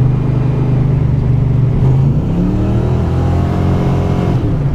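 1987 Mustang GT's 5.0 V8 running steadily, then revving up hard from about two seconds in, the pitch rising for about two seconds before dropping back near the end.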